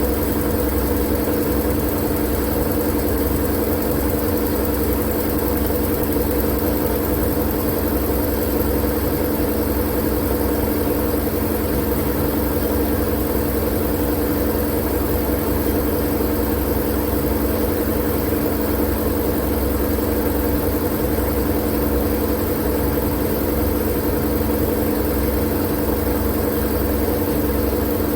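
Steady, unchanging white noise with a constant low hum running through it.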